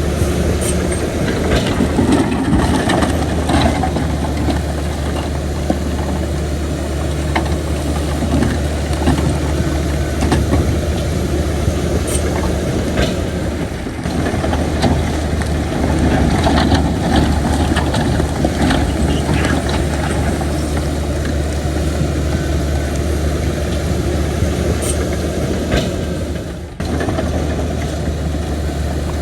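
Heavy diesel earthmoving machinery running steadily and hard, with scattered metallic clanks and knocks over the engine. The sound breaks off abruptly twice, about halfway through and near the end.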